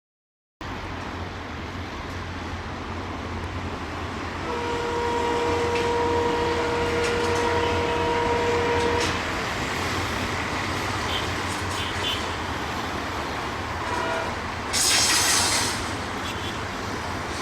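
Diesel-hauled passenger train running along the track, a steady rumble of engine and wheels. The locomotive's horn sounds one long steady note for about four seconds. Near the end comes a short, loud burst of hiss.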